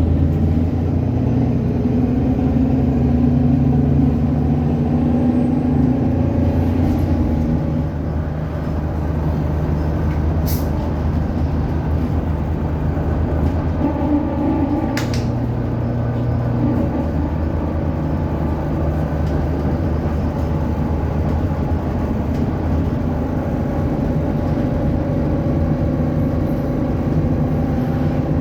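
ADL Enviro 400 double-decker bus engine running under way, its steady pitched drone stepping up and down as the bus pulls and changes gear. Two brief sharp clicks or hisses come about a third and halfway through.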